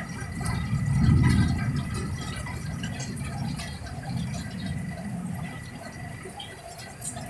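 Strong gusty wind with rain: gusts buffet the microphone in surges, the strongest about a second in, over rain falling and dripping.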